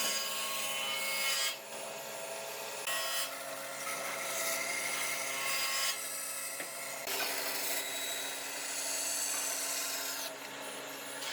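A tool working wood with a steady rasping, rubbing noise, in several stretches that change abruptly.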